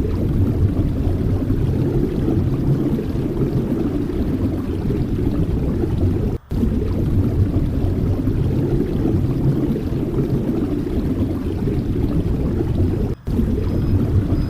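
Wind buffeting the microphone: a steady low rumble, cut off twice for a split second.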